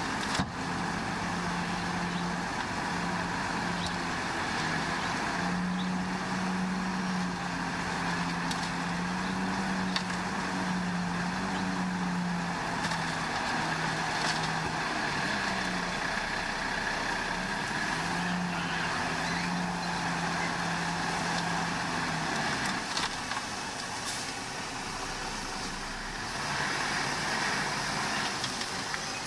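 Heavy diesel earthmoving machinery running at a work site, the engine note shifting up and down slightly as it works, with a few light clicks and clanks.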